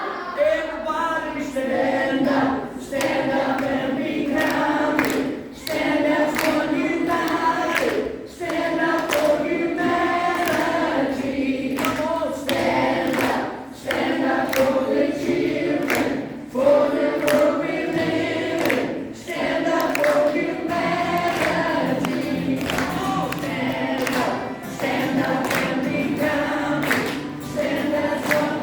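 A group of voices singing together in chorus, phrase after phrase, with brief breaks between phrases.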